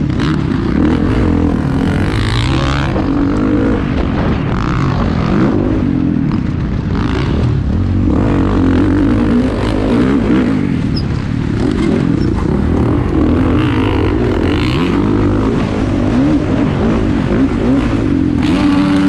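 Several off-road motocross motorcycles racing on the track, their engines revving up and down and overlapping. Louder passes come by about two seconds in, around seven seconds and around fourteen seconds.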